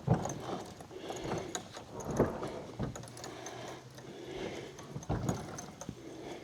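Plastic kayak hull knocking and scraping as it is hauled up onto a dock, with several heavier thumps spread through the few seconds.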